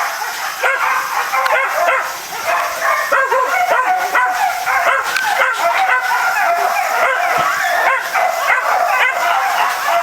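Three-month-old Takinoya-line puppies yelping and yipping without pause, in rapid, high-pitched, overlapping cries with some barks.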